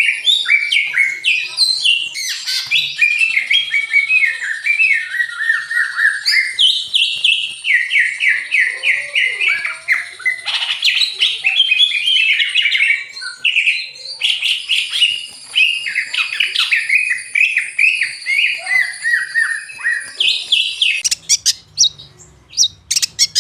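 Caged songbird singing a continuous, rapid, varied song of quick note runs that often fall in pitch. Near the end it switches to sharp, separate chips.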